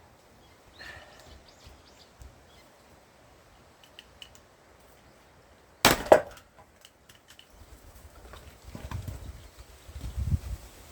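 A large forged axe striking a knotty pine round being split for firewood: one sharp crack about six seconds in, with a second knock right after. Low, dull thumps follow near the end.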